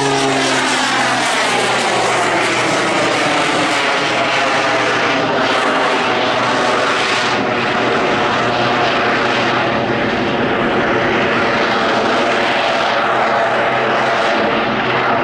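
A Jet Pitts aerobatic biplane's piston engine and propeller running loudly in flight. Its pitch falls over the first couple of seconds as the aircraft passes, then settles into a dense, steady noise.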